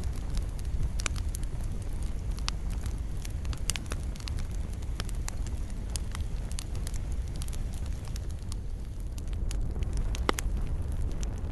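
Wood campfire crackling, with frequent irregular sharp pops over a steady low rumble of the flames, and one louder pop near the end.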